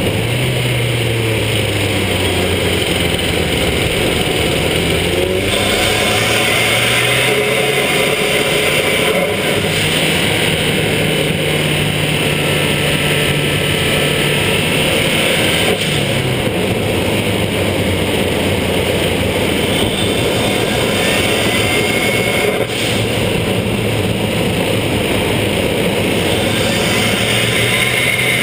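Fiat Punto GT's turbocharged four-cylinder engine and Remus exhaust under way, the engine note rising under acceleration and dropping at gear changes, with a faint turbo whistle rising as it comes on boost. Tyres hiss on the wet road underneath.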